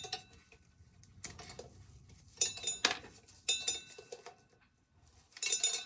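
Corn being shelled by hand, the kernels clattering into a pail in short bursts of clicks and rattles about once a second, with a faint ringing.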